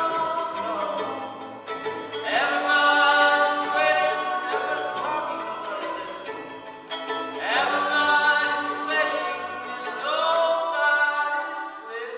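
Live music: sustained singing over bowed strings, long held notes that swell and slide between pitches.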